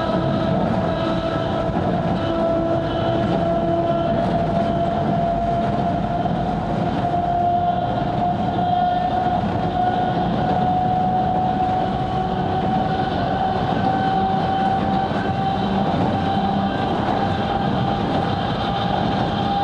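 Sangi Railway 270-series narrow-gauge electric train running, heard from onboard: a steady rumble of the wheels on the rails, with a motor whine that rises slowly in pitch as the train gathers speed.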